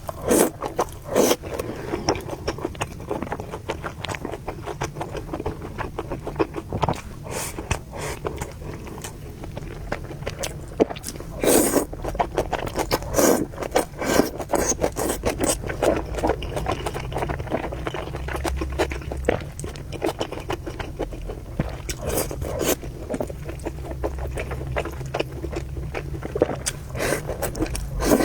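Close-miked eating sounds: noodles being slurped and chewed, heard as a dense, irregular string of short slurps and smacks.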